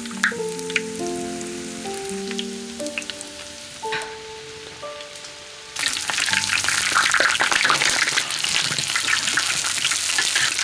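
Soft background music with a simple melody, then about six seconds in a loud crackling sizzle starts suddenly: dumplings frying in hot oil in a large iron wok, turned with a metal spatula.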